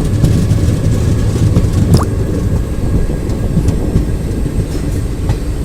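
Passenger express train running on the track, a steady low rumble of the coach and wheels with faint knocks, and a brief high rising squeal about two seconds in.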